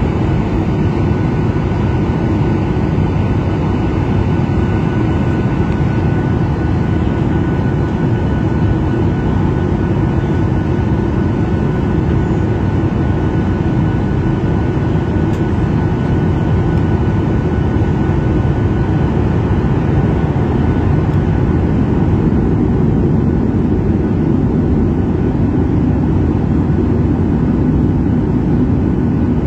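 Steady engine and airflow noise inside an airliner cabin: a constant low rush that does not change in level, with a faint steady whine above it.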